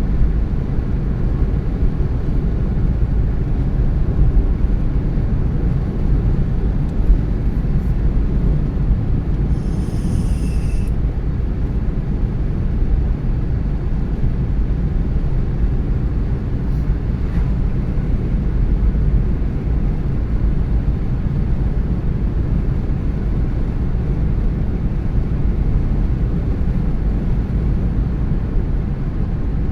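Steady low road rumble of a car driving: tyre and wind noise. A brief higher hiss comes about ten seconds in.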